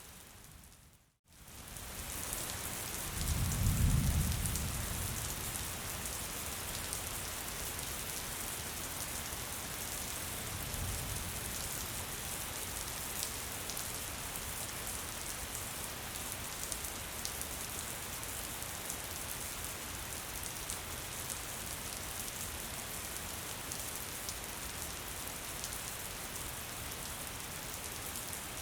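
Steady gentle rain pattering on a surface, a fine hiss of many drops. It fades out to silence for a moment about a second in, then returns. A low rumble swells a couple of seconds later and is the loudest thing, with a fainter one some seconds after.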